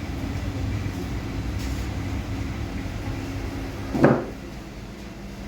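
Low steady rumble of a running vehicle, with a single short thump about four seconds in, after which the rumble is quieter.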